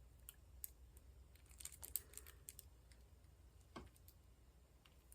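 Faint, irregular light clicks and taps of a diamond painting pen picking up and pressing square resin drills onto the canvas, a few scattered over a few seconds.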